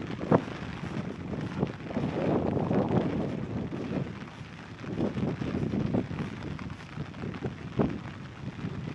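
Storm wind buffeting the microphone and rain hitting an umbrella overhead, a rushing, uneven noise with a couple of sharp taps.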